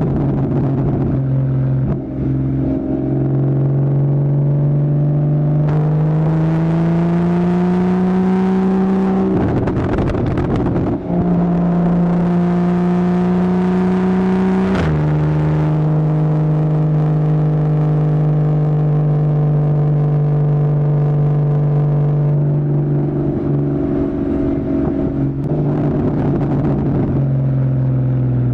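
2015 Porsche Boxster's 2.7-litre flat-six with a Fabspeed Maxflo aftermarket exhaust, running on the road. Its note climbs steadily, breaks into a rough noisy stretch about ten seconds in, then runs higher again. It drops sharply about fifteen seconds in, holds steady, and eases lower near the end.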